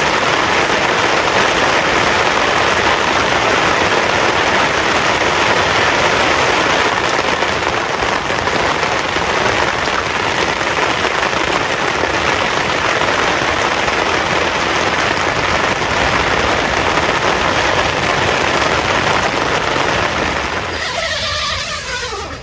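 Heavy rain pouring down in a steady, dense hiss. It cuts off abruptly near the end, giving way to a quieter sound.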